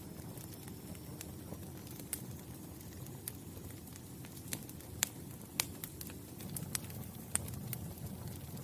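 Wood fire burning: a steady low rumble of flames with sharp crackles and pops at irregular intervals.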